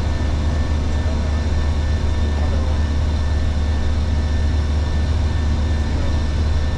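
Steady flight-deck noise of a Boeing 737 in the climb: a loud, even low rumble with airflow hiss and a few faint steady tones.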